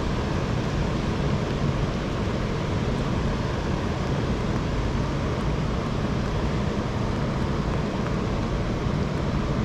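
Steady rush of wind buffeting the microphone, with the hiss of rain, holding at an even level with no distinct events.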